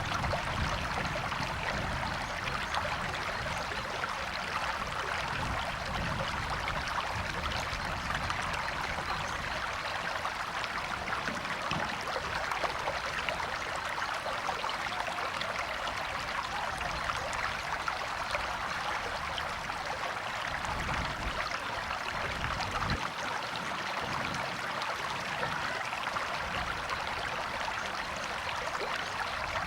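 A river or stream flowing steadily, a continuous rushing of running water, with a low rumble underneath that comes and goes.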